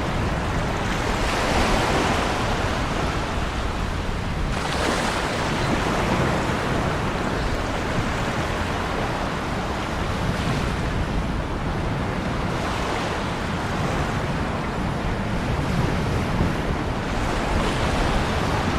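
Ocean surf: waves breaking and washing onto the shore in a continuous hiss, swelling about five times as successive waves come in, one surge rising sharply about four and a half seconds in.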